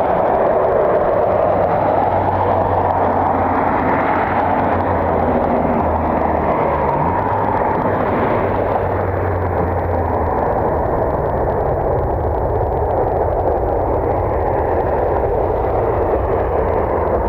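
Boeing 737 MAX jet engines running in a steady broad roar, with a low hum underneath that fades about ten seconds in.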